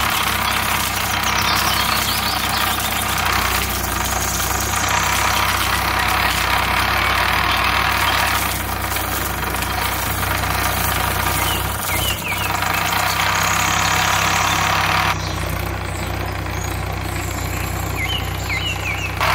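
A small motor running steadily with a low hum, its tone shifting abruptly a few times, with a few short high chirps.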